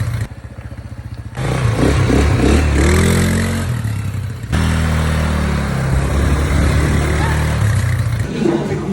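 ATV engine running and revving up and down, with a sudden drop in level for about a second just after the start.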